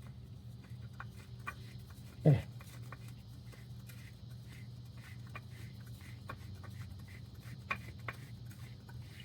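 Faint clicks and handling noises of a new oil filter being fitted onto the engine by hand, over a steady low hum. About two seconds in, one short, loud sound that drops sharply in pitch.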